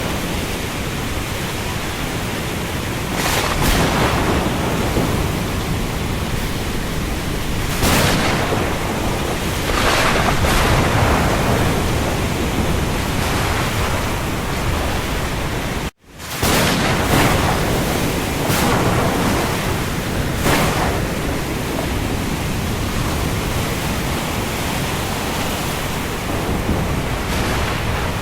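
Steady heavy rain falling on the sea, an even hiss that swells briefly louder every few seconds. It drops out completely for a split second about midway, then picks up again.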